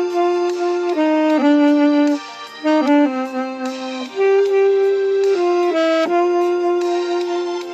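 Alto saxophone playing a slow melody in held notes that step up and down, with a brief break in the line a little past two seconds in.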